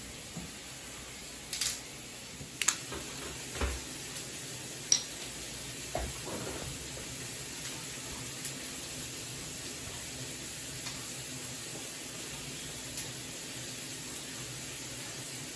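Kitchen cookware clatter: several sharp clinks and knocks of utensils and pans in the first few seconds, over a steady hiss that carries on after them.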